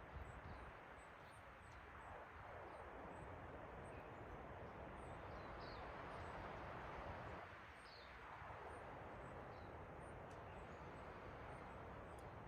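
Faint forest ambience: a steady soft rushing hiss that swells and eases, with small, high bird chirps scattered throughout.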